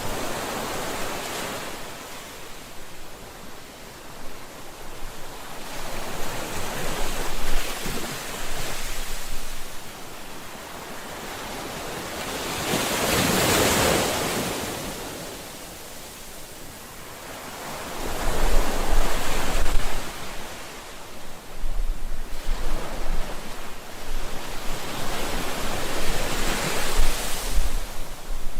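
Ocean waves washing onto the shore, the surf swelling and falling back in a slow surge every few seconds, with the biggest wave breaking about halfway through.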